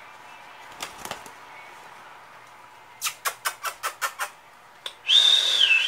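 A quick run of about eight sharp clicks, then a short harsh squawk from a baby parrot near the end, its pitch dipping as it ends.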